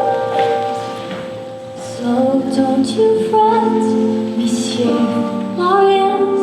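Music: held accompaniment chords, then a female voice begins singing over them about two seconds in.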